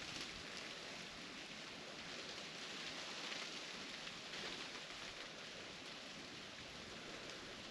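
Ice-encrusted tree branches crackling all around in a faint, steady, dense patter like light rain, from the ice cracking after an ice storm.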